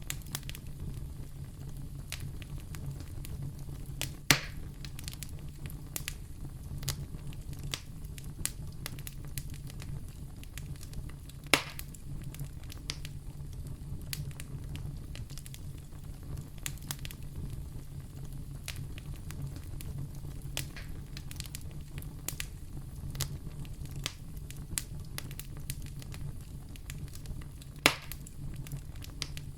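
Wood fire burning in a fireplace: a steady low rumble of flames with frequent small crackles, and three sharp, loud pops about 4, 12 and 28 seconds in.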